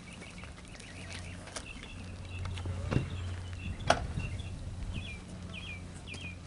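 Small birds chirping outdoors, short high notes scattered through, ending in three quick repeated falling chirps. Two sharp knocks come about three and four seconds in, over a steady low hum.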